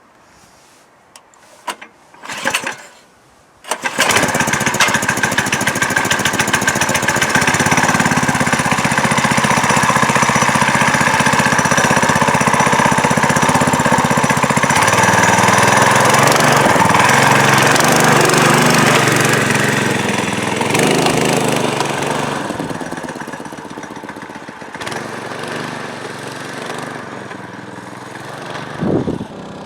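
A few knocks and clatters, then a cheap Honda-clone single-cylinder four-stroke engine on a homemade minibike with a CVT torque converter starts at about four seconds and runs loud. Its pitch steps up and down as it is revved and ridden, and it falls away in level after about twenty seconds.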